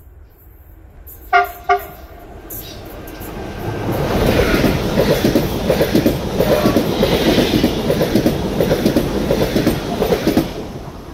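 PKP Intercity ED160 (Stadler FLIRT) electric multiple unit sounding two short horn toots about a second in, then running through close by with a loud rumble and rapid wheel clatter over the rails, which dies away near the end.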